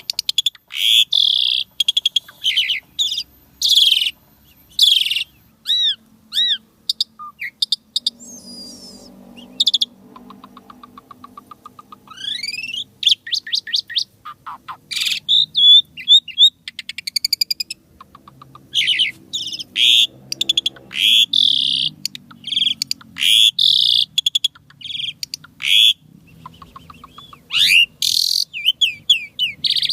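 Asian pied starling (jalak suren) singing a long, varied song: loud, harsh screeching calls again and again, mixed with short looping whistles, a rising whistled note and fast rattling trills.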